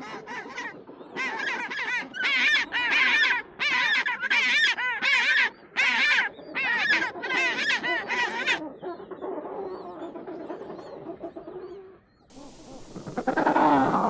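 Penguin calling: a long braying series of about a dozen loud, harsh, wavering notes in quick succession, then quieter calls. The sound cuts out briefly about 12 seconds in, and another loud penguin call starts near the end.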